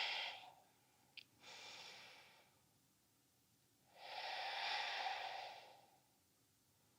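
A woman's slow, deep yoga breathing: a faint breath about a second and a half in, then a longer audible breath about four seconds in that lasts about a second and a half.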